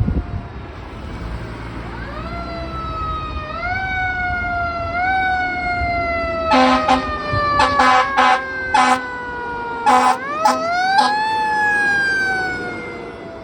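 Fire engine responding with its siren winding up in steps and winding slowly back down, then up again, while a series of short air horn blasts sounds over it in the middle. The whole fades away near the end as the engine moves off.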